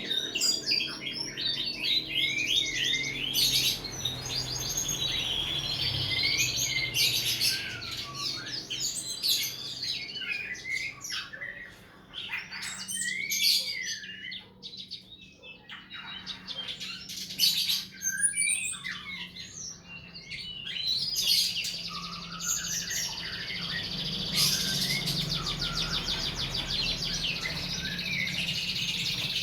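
Songbird song: a varied run of quick whistled notes and chirps, dropping away for a few seconds around the middle, then a fast buzzy trill toward the end.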